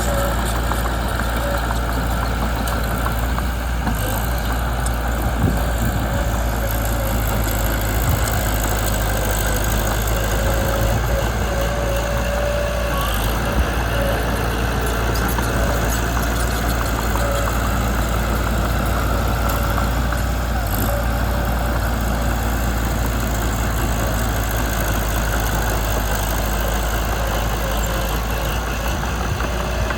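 Mitsubishi BD2 bulldozer's engine running steadily with a constant low drone, a couple of brief clicks over it.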